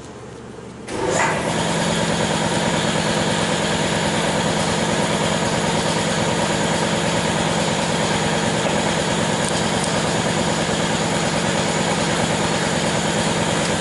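A machine running steadily with a constant hum, coming on abruptly about a second in.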